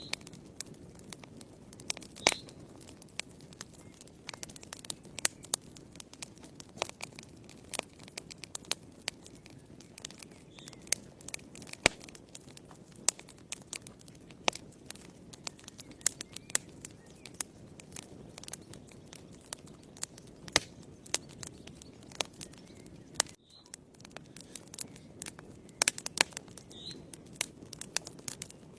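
Wood fire burning in a fireplace, crackling and popping irregularly over a low steady rush of flame.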